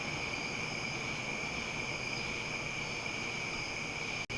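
Insects trilling steadily in the background, a constant high-pitched drone with no other events; the sound cuts out for an instant just before the end.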